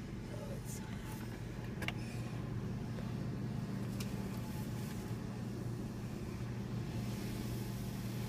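A car engine idling with a steady low hum, and faint clicks about two and four seconds in.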